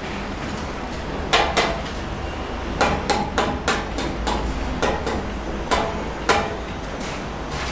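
About a dozen sharp knocks of a mason's tool striking cement bricks, in irregular clusters.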